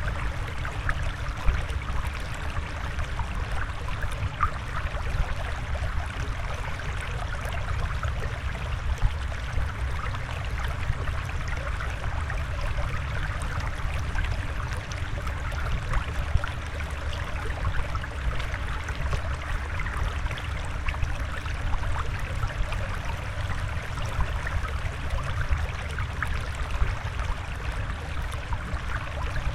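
Water flowing and trickling steadily, with a constant patter of small bubbling splashes over a low rumble.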